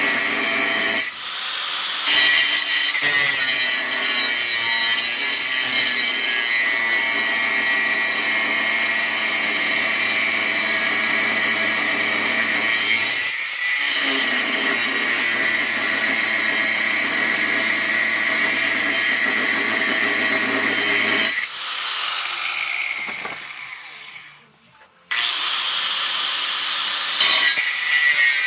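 Power tool working scrap steel plate, its motor running with a steady high whine and a harsh cutting noise. About 21 seconds in it winds down to near silence, then starts again abruptly a few seconds later.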